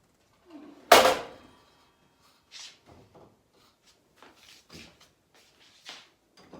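Handling knocks from working with boards and metal parts at a miter saw: one loud sharp knock with a short metallic ring about a second in, then several lighter knocks and clicks.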